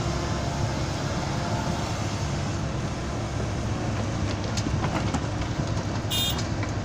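Heavy diesel engine running steadily with a low rumble, a few faint clicks, and a brief high-pitched sound near the end.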